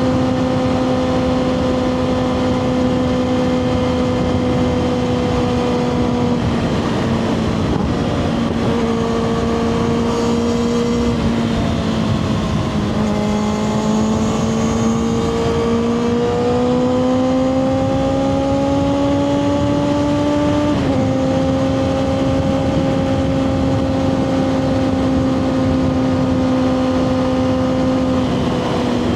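2024 Kawasaki ZX-6R's inline-four engine through a Two Brothers slip-on exhaust, riding at steady revs over wind rush. About a third of the way in the revs dip and waver, then climb slowly for several seconds. Past the middle they drop suddenly at a gear change and hold steady again.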